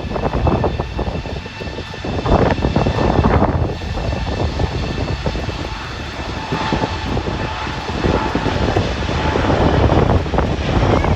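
The four Rolls-Royce Trent 970 turbofans of an Airbus A380 at takeoff power. They make a loud, deep, crackling rumble with a steady high whine over it, swelling and easing as the jet passes.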